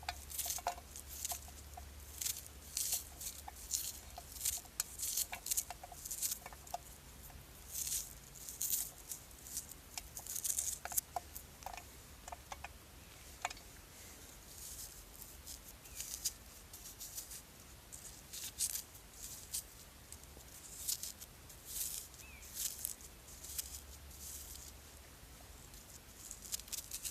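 A knife cutting through an onion held in the hand, dicing it roughly: a run of irregular crisp cuts and small clicks, with a low steady hum underneath.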